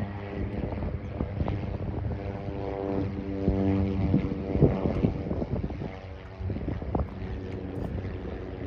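Jet engines of a Boeing 747-400 running, a low rumble with a steady droning hum that swells in the middle, with wind buffeting the microphone.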